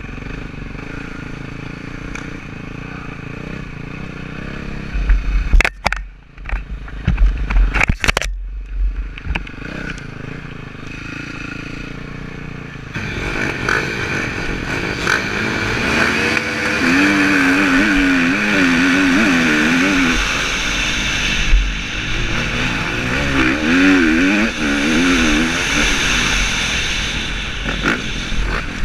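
Motocross bike engines heard through a helmet camera, including the rider's KTM 350 four-stroke. They run steadily at first, with a few loud knocks against the camera a few seconds in. Just under halfway through the sound grows louder, with engines revving up and down in wavering pitch.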